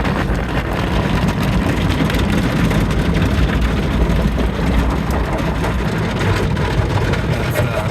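Car wash pressure washer running: a steady, loud rush of spraying water over a low pump rumble.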